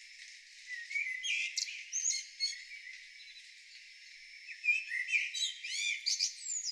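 Songbird singing: two phrases of quick, varied chirps and trills, the first about a second in and the second from about four and a half seconds.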